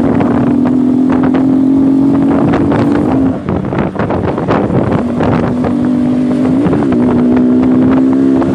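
Single-cylinder sport motorcycle engine revved and held at high revs, the pitch creeping slightly upward. It drops off a little after three seconds, then is held high again with a quick blip near the end, over wind noise on the microphone.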